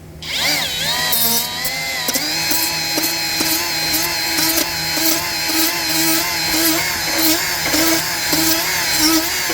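Ryobi die grinder spinning up to a high whine in the first second, then running steadily with its pitch wavering as a 180-grit twist-lock sanding disc grinds the rough, damaged spots off a conveyor.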